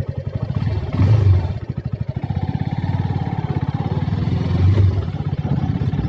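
Suzuki Gixxer SF 250's single-cylinder engine running at low revs, its firing pulses coming fast and even, with the engine note swelling briefly about a second in and again near the end.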